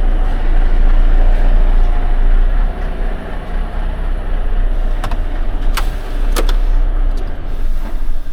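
A motor vehicle's engine running with a steady low rumble. Three sharp clicks fall about five to six and a half seconds in.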